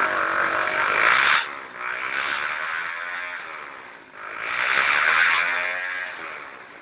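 Suzuki Satria FU motorcycle's single-cylinder four-stroke engine revved through its exhaust in an exhaust test: a hard rev cut off suddenly after about a second and a half, then a second rev about four seconds in that rises and dies away near the end.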